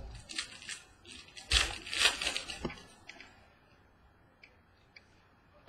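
Trading cards and their packaging being handled: rustling and sliding in the first half, loudest about two seconds in, then a few faint ticks.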